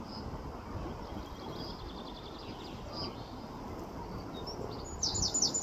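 Small birds chirping over a steady low wind rumble: scattered faint high notes, then a quick run of louder, high chirps near the end.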